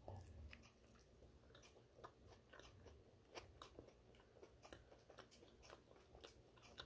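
A bite into a bagel topped with chickpea salad, then faint chewing with soft, irregular mouth clicks.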